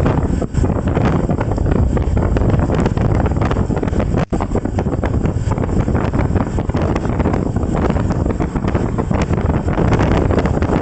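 Heavy wind buffeting the microphone of a camera on a moving ride, a dense rumbling noise that swells and eases irregularly. It drops out for an instant about four seconds in.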